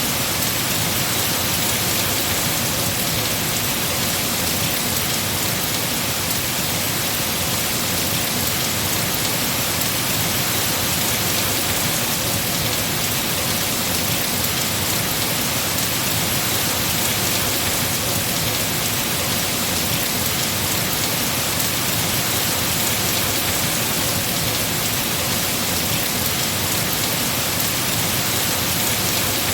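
Heavy rain falling steadily on trees, a dense even hiss of drops on leaves.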